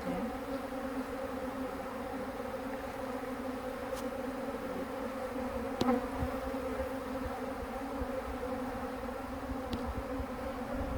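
Honey bee swarm buzzing, a steady drone of many wingbeats from bees spread out over the pipe, with a brief click about six seconds in.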